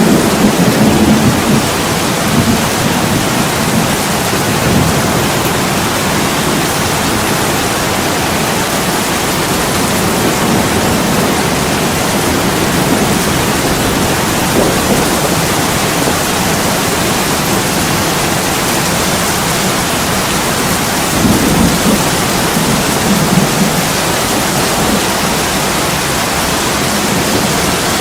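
Heavy rain pouring steadily against a window, a dense, even hiss. Low rumbles swell up near the start and again about three quarters of the way through.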